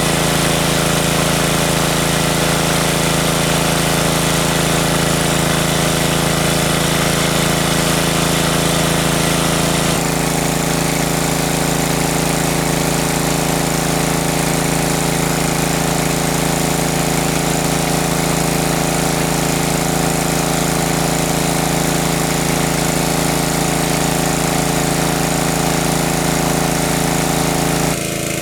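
A small engine running steadily, with a strong low hum. Its tone shifts slightly about ten seconds in and again near the end.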